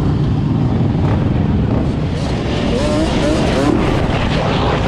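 Many dirt bike and ATV engines running together in a steady low rumble, with engine pitch wavering up and down in the middle as riders rev.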